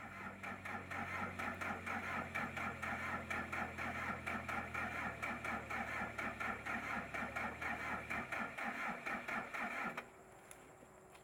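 Rice combine harvester running with a rhythmic mechanical clatter of about five beats a second over a steady low hum. The hum drops out about eight seconds in, and the clatter stops suddenly about two seconds later.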